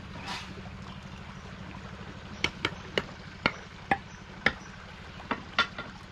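About ten sharp knocks with a slight metallic ring, coming irregularly over roughly three seconds starting about two and a half seconds in: tools striking blocks during masonry work. A steady low engine hum runs underneath.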